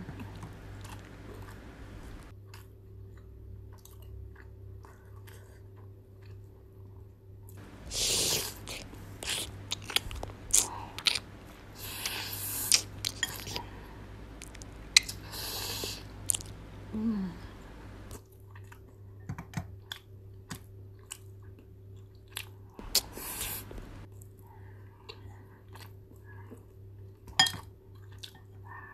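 Close-miked eating: chewing and biting on cheese-covered BBQ chicken wings and rice, with wet mouth clicks throughout. A few louder hissing sucking sounds come as meat is pulled off the bone, over a faint steady hum.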